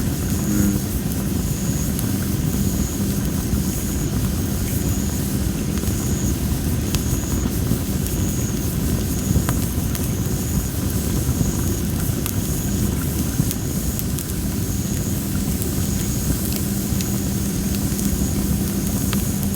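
Well-dried masaki (Japanese spindle) firewood burning in a campfire: a steady low rumble of flame with scattered small crackles and pops. A high, thin chirp repeats about once a second behind the fire.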